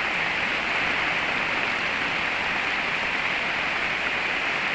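Heavy rain falling steadily without wind, a dense even hiss.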